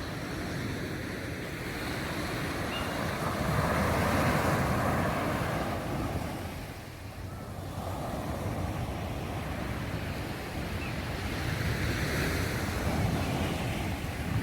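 Sea waves washing onto the beach, the surf swelling and easing over several seconds, with wind rumbling on the microphone.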